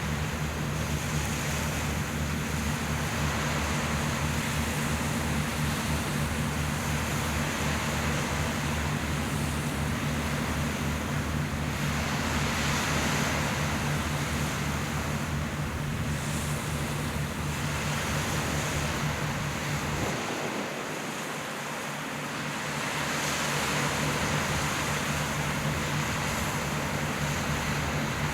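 A boat engine running with a steady low hum, over wind and the wash of the sea that swell and ebb. About twenty seconds in, the hum fades for a couple of seconds.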